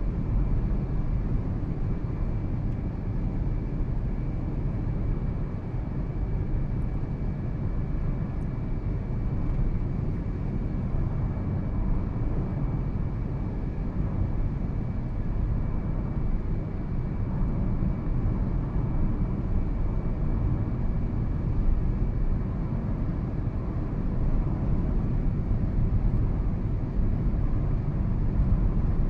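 2013 Toyota Prius on the move: steady road and tyre noise, with a faint thin high whine over it.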